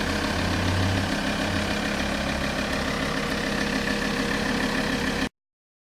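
Alfa Romeo 159 2.4 JTDM's five-cylinder turbodiesel engine idling steadily; the sound cuts off suddenly near the end.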